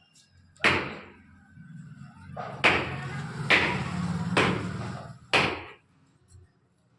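Five sharp knocks, hard objects struck or set down, with a low hum under the middle three.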